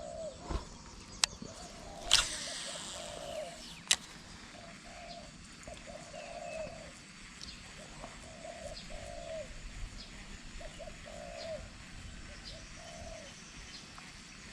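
A dove cooing over and over, a short coo roughly every second. A few sharp clicks and a brief noisy burst, the loudest thing here, come in the first four seconds.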